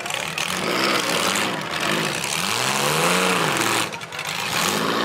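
Several demolition derby car engines revving and running hard, their pitch rising and falling, with a brief drop about four seconds in.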